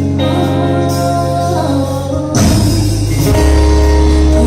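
Church worship band playing between sung lines, held chords with bass, and a cymbal crash about two and a half seconds in, after which a deep bass note comes in.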